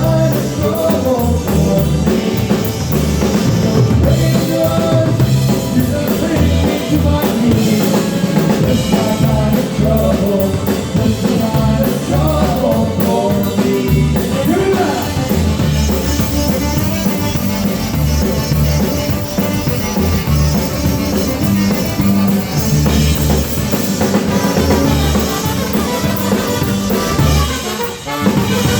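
Live polka band playing a polka with a steady, driving drum-kit beat.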